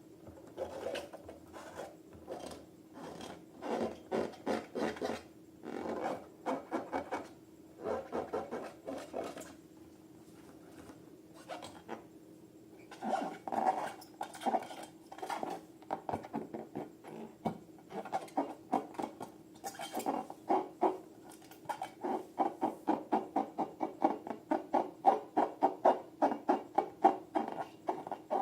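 Slime being squeezed and kneaded, making wet clicking and squelching pops in short bursts. Near the end the pops settle into a steady quick rhythm of about four a second and grow louder.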